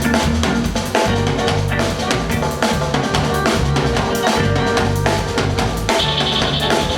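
Live reggae band playing an instrumental riddim: drum kit with rimshots, bass drum and snare over a repeating bass line.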